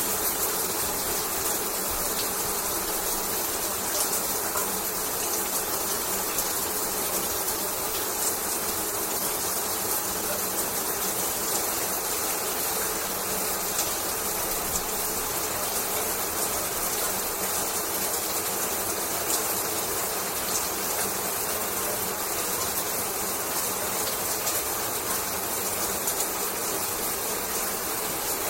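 Shower water spraying and falling steadily, an unbroken rushing hiss with faint scattered patters.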